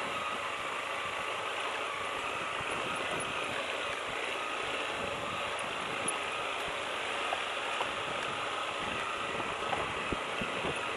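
Lifan KPT200 motorcycle engine running steadily, mixed with a broad rushing noise and a few small ticks.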